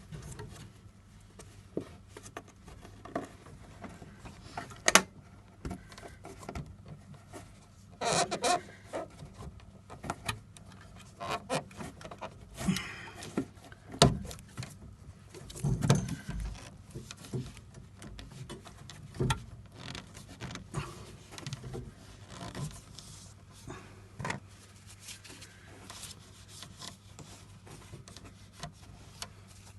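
Handling noises of a plastic coupling being pushed and worked onto a PVC pipe: scattered clicks, knocks and rubbing of plastic on plastic. A steady low hum runs underneath.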